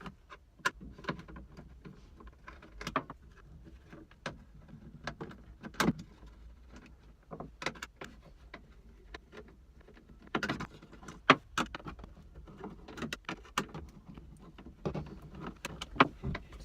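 Irregular clicks, taps and knocks of a car's rear speaker assembly being taken apart by hand, with a few sharper knocks, the loudest a little past the middle.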